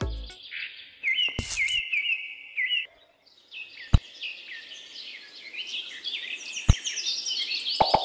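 Small birds chirping: quick downward-sliding chirps repeated in runs, with a couple of sharp clicks, the loudest about four seconds in.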